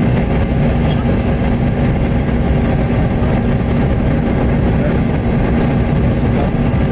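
Steady cabin noise inside a Bombardier CRJ200 regional jet: a loud, even rush of airflow over the drone of its rear-mounted turbofan engines, with a few constant tones.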